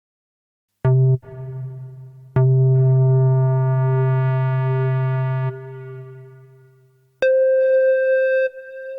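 Access Virus B virtual-analog synthesizer sounding a lead patch: a low note struck about a second in and struck again, then held for about three seconds, growing brighter before it fades away. A higher note starts near the end.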